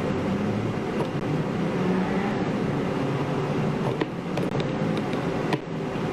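Steady low background rumble with a handful of short sharp clicks: the iPhone X's buttons being pressed one after another to test them.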